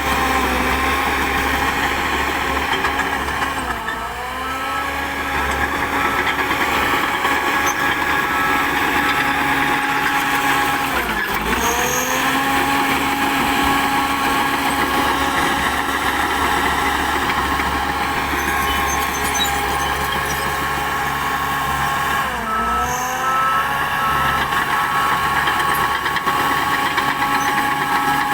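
Diesel engine of a SHANTUI DH10B2 bulldozer running steadily at working speed. Its pitch sags briefly and recovers three times, about 4, 11 and 23 seconds in.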